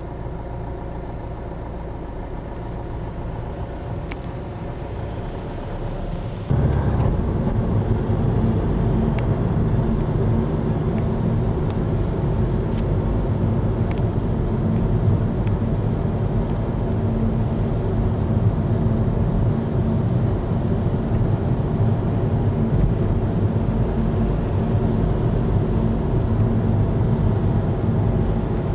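Steady vehicle engine drone and road noise heard from inside a moving car, driving behind a tractor-drawn silage trailer. About six and a half seconds in the drone suddenly gets louder and deeper, and it stays at that level.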